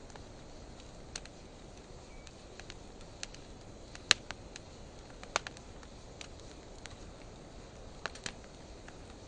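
Wood fire of driftwood and dry hardwood burning: a steady low hiss with scattered sharp crackles and pops, the loudest about four seconds in, and a quick pair near the end.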